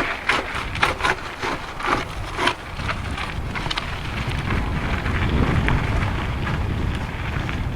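Mountain bike rattling and knocking over a rough dirt trail for the first couple of seconds. A steady low rumble of wind buffeting the microphone follows and grows louder toward the middle.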